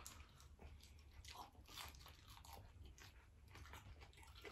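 Faint crunching and chewing of food being eaten by hand, a string of short crisp bites.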